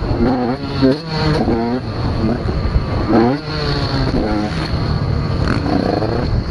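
Several motocross bikes' engines revving hard, their pitch climbing and dropping back again and again as the riders open the throttle and shift through the gears, with more than one bike heard at once.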